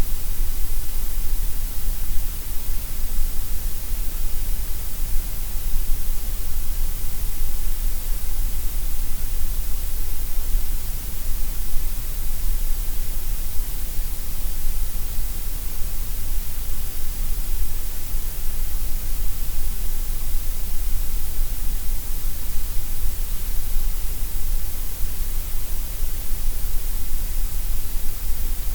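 Steady, unbroken gray noise: an even hiss over a low rumble, fullest in the deep lows and the highs and thinner in the middle.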